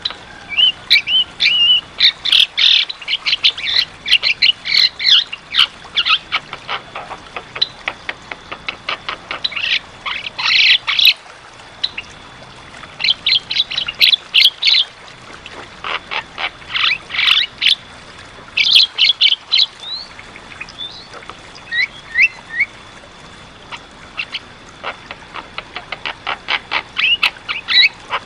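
Javan myna singing loudly in repeated bursts of rapid, harsh chattering notes mixed with short whistles, ending in a fast run of clicky notes.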